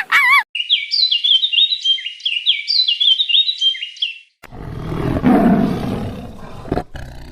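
A bird sings a repeated phrase of quick falling whistled notes for about four seconds. Then a deep, rough animal roar lasts about two seconds.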